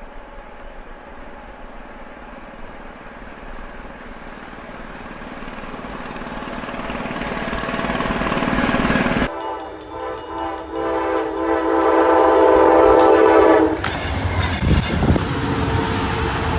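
A train approaching, its noise building steadily louder, then a long train horn blast of several tones held for about four seconds. The horn gives way to the rumble and clatter of the train passing.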